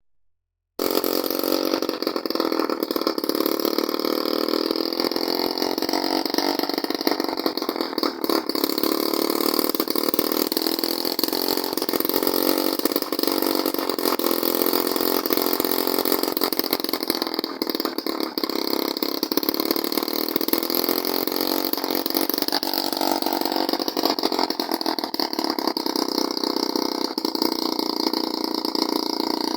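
Homemade two-stroke engine converted from a refrigerator compressor, fed by a carburettor taken from a rice-field power sprayer, running steadily. The sound cuts in abruptly about a second in.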